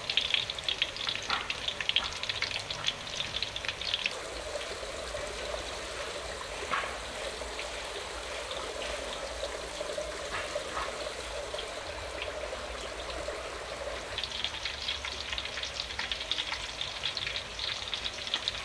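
Sweet potato shrimp cakes frying in hot oil, a steady sizzle full of fine crackles. The crackling is heavier at first, eases off, and picks up again about two-thirds of the way through.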